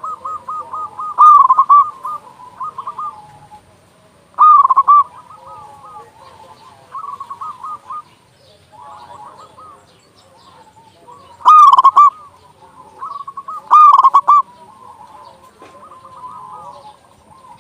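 Zebra doves (perkutut) cooing in their rolling, stuttering song. Four loud phrases stand out, and fainter coos overlap between them.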